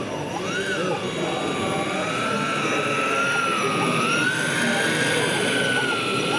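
A high-pitched whine from a radio-controlled model that slowly wavers up and down in pitch, over the babble of a busy exhibition hall.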